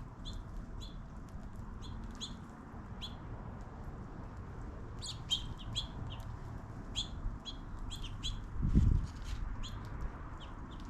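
Small birds chirping in short, high, repeated chip notes, growing busier about halfway through, over a low background rumble. A brief low thump comes near the end.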